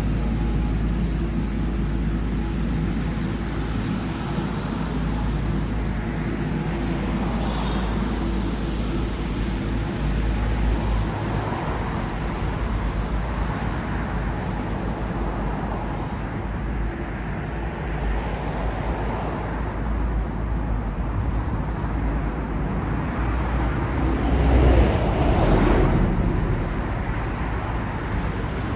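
City street traffic noise: a steady low rumble of passing cars, with one louder vehicle passing near the end.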